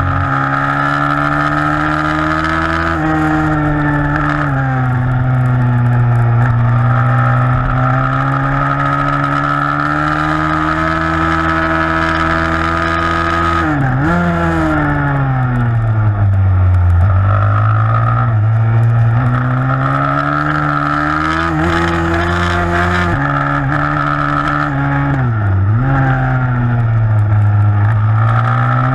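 A 160cc pit bike's single-cylinder engine running hard in a race, its revs rising and falling with the throttle. The pitch drops sharply and climbs back twice, about halfway through and again near the end.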